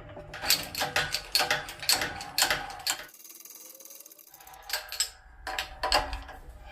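Irregular run of sharp clicks and knocks, several a second, broken by a quieter stretch about three seconds in.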